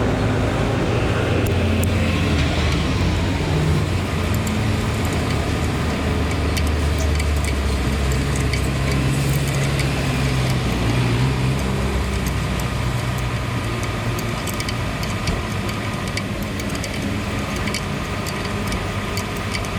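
Bus engine running steadily while the air-conditioning system is tested, its low hum shifting a little in pitch.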